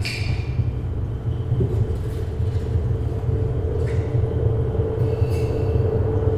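A steady low rumbling drone played over loudspeakers, with a faint hum that grows slightly stronger toward the end and a few light clicks.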